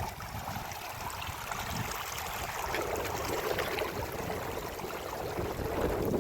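Rushing floodwater and heavy rain, a steady noisy wash that grows louder from about two and a half seconds in.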